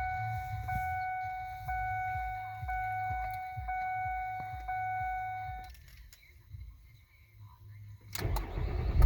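Ford Fusion's dashboard warning chime sounds as a steady electronic tone, repeating about once a second for roughly six seconds. After a short lull, the starter cranks near the end and the engine catches on a cold start.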